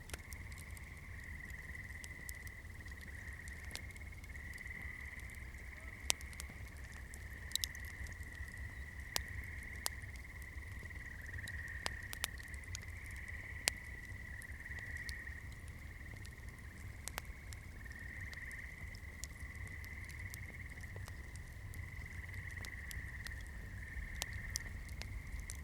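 Wood campfire crackling, with irregular sharp pops and snaps scattered throughout over a low, steady rumble of flame, and a continuous high-pitched hum that wavers slightly.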